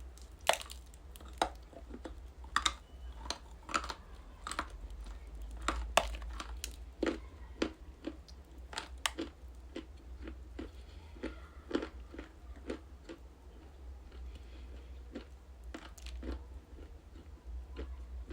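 Close-up biting and chewing of something crunchy: sharp crunches, the loudest in the first six seconds, then softer, sparser chewing toward the end. A steady low hum runs underneath.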